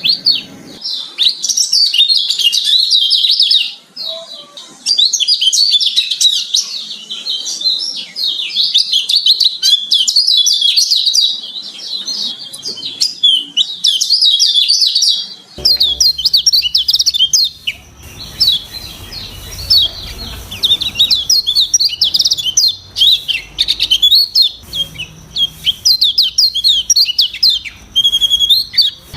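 A kecial kuning (white-eye) singing a long, fast, varied twittering song of high chirps and trills, with hardly a pause. About halfway through the recording changes and a low background hum comes in under the song.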